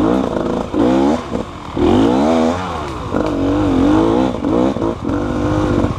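Motorcycle engine revving up and down repeatedly, its pitch rising and falling in several swells.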